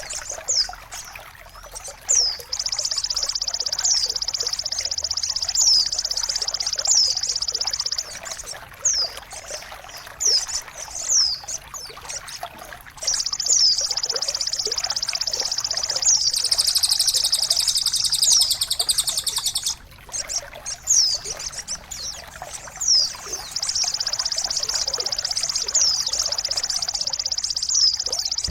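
Songbirds singing: long, rapid, high trills lasting several seconds, with repeated downward-sweeping whistles between them, over a soft trickle of water.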